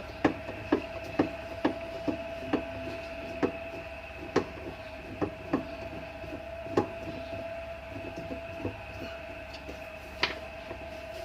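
Short sharp metallic clicks and taps, irregular at about one to two a second and fewer towards the end, as a 10 mm spanner works loose the centre nut that holds a washing machine's pulsator. A steady faint hum runs underneath.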